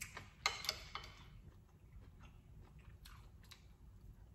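Close-up chewing of a mouthful of shrimp and grits. A metal fork clicks and scrapes against the plate in the first second, with a few fainter ticks after.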